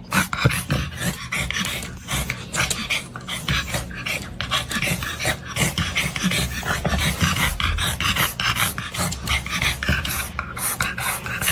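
A dog making short, noisy sounds in quick, irregular succession throughout.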